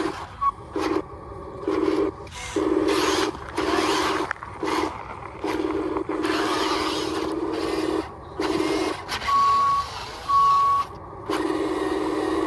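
Radio-controlled model heavy-duty truck, with its electronic sound module playing a steady engine hum that cuts in and out as it is driven. Bursts of hiss come with it, and a reversing beeper sounds a few times near the end.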